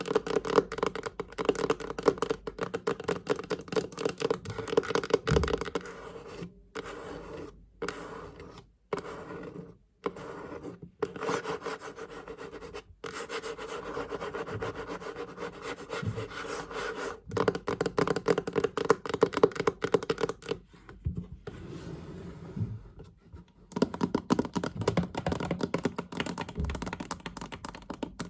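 Fingers tapping rapidly on a chest, a dense patter of quick clicks that drops out briefly several times, with some stretches of rubbing and scratching on the surface.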